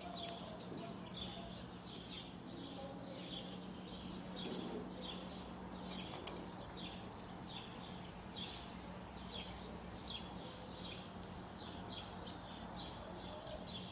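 A small bird chirping over and over, about two short high chirps a second, over a steady low hum.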